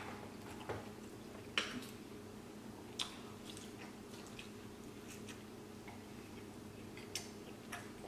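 A man eating Popeyes spicy fried chicken: close chewing with a handful of short, sharp crunches and mouth clicks, the loudest about one and a half seconds in, over a steady low hum.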